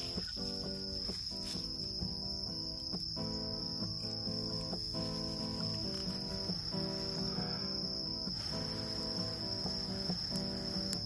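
Autumn-night insects chirring in one continuous high, steady trill, over instrumental background music with held notes changing every fraction of a second.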